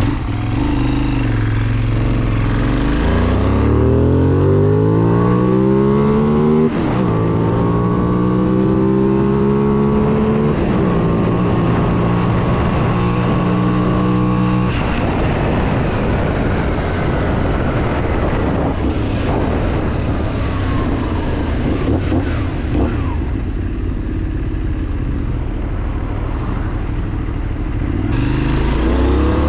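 Benelli 752S motorcycle's parallel-twin engine accelerating through the gears: the pitch climbs, drops at a shift about 7 seconds in and again about 10 seconds in, then holds steady. From about 15 seconds the sound turns rougher and less tonal, and near the end the engine climbs in pitch again.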